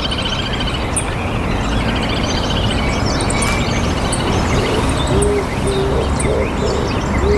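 A bird giving a run of short, low hooting notes from about five seconds in, over a steady background hiss, with faint high chirps from other birds.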